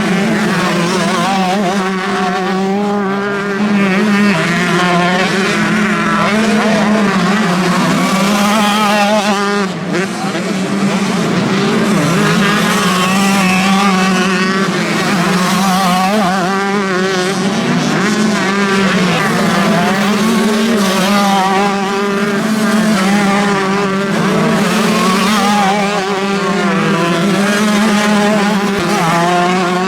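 Several motocross bikes' engines revving hard on the track, their pitches rising and falling as the riders open and close the throttle, over a steady drone.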